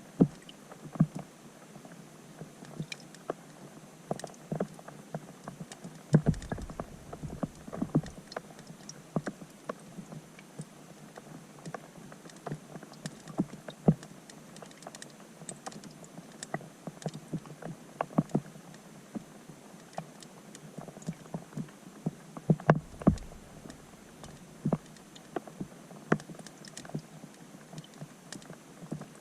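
Rain falling on a pond, heard from underwater: raindrops hitting the surface make dense, irregular ticks and plinks. Low rumbles come twice, about six seconds in and again near 23 seconds.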